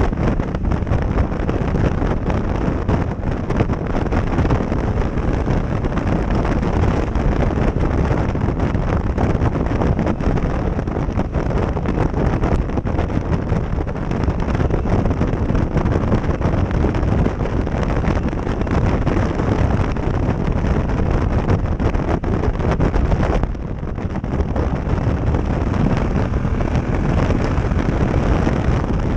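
Heavy wind buffeting on a helmet-mounted action camera's microphone while riding a motorcycle, with the engine mostly buried under it. The noise eases for a moment about three-quarters of the way through, then builds again.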